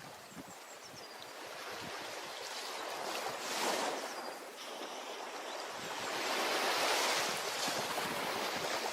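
Ocean waves breaking and washing onto a beach: a smaller surge about three and a half seconds in, then a bigger wash that builds to a peak about seven seconds in.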